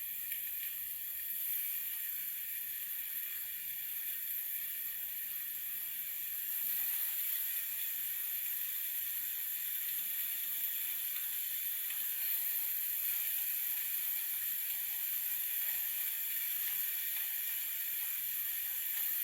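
Marinated chicken pieces frying skin side down in hot oil in a pan, giving a steady sizzle that grows slightly louder about six seconds in.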